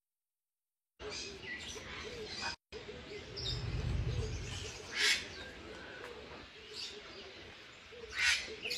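Birds chirping in short, scattered calls over a faint steady background, with a brief low rumble about three to four seconds in.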